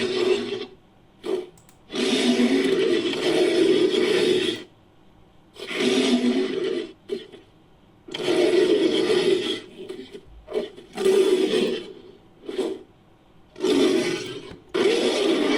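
Made-up monster creature vocalisations layered from ape and big-cat roar recordings: a series of rough roars and growls. Most last one to three seconds, with a few short snarls between them and short pauses in between.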